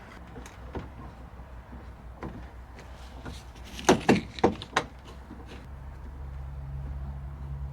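A quick run of four sharp knocks and clatter while the bumper under tray is worked into place under the car. A steady low hum rises from about six seconds in.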